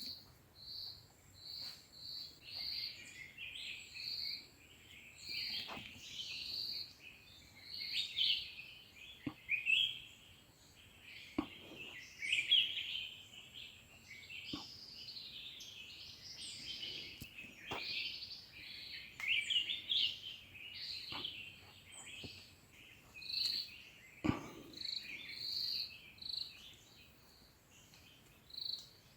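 Many small birds chirping and calling together, with a string of short high notes repeated about twice a second and a few faint sharp clicks scattered through.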